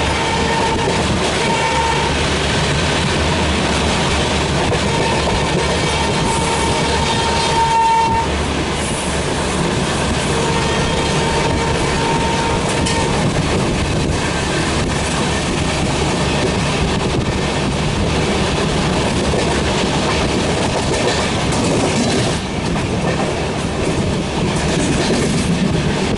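Train running with continuous clickety-clack and wheel rumble, while a WAP5 electric locomotive's horn sounds a steady tone in several blasts during the first half, the longest about two seconds long.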